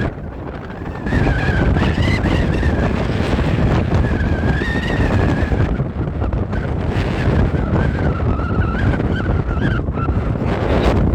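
Strong wind buffeting the microphone in a loud, steady rumble, with a thin whistle that wavers up and down in pitch.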